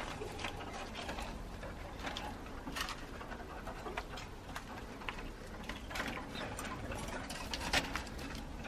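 Caged zebra finches giving short, sharp chirping calls, scattered irregularly, over a low steady hum.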